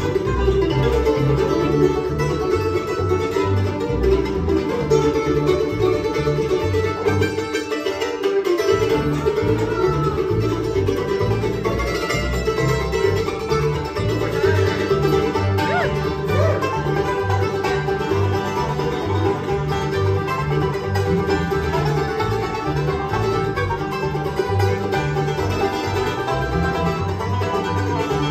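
Bluegrass band playing, with a picked banjo out front over guitar and a walking bass line; the bass drops out for a moment about eight seconds in.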